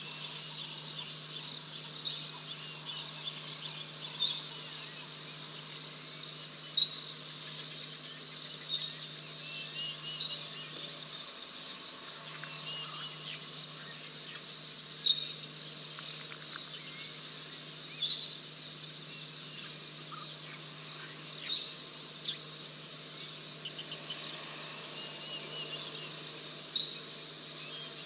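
Short bird calls repeated every few seconds, ten or so sharp notes rising above a faint steady background of outdoor ambience and a low hum.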